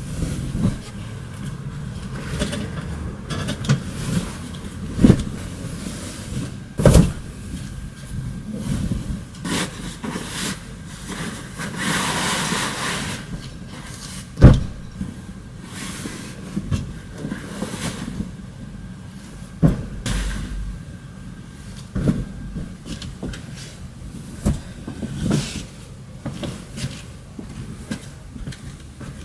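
Scattered knocks and bumps of household objects being handled, over a low steady background, with a short rush of noise about halfway through.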